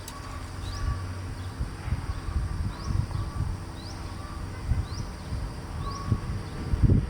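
A bird chirping in short rising notes, about once a second, over a low, uneven rumble.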